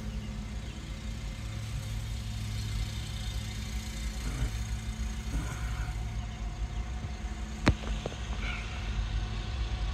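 Diesel locomotives of an approaching freight train rumbling steadily, with a single sharp click about three quarters of the way through.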